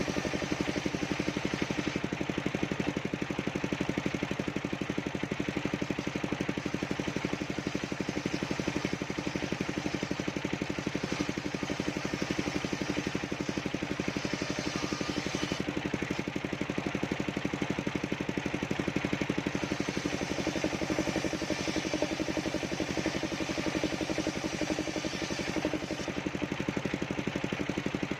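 Engine of a mobile circular sawmill running steadily at an even speed.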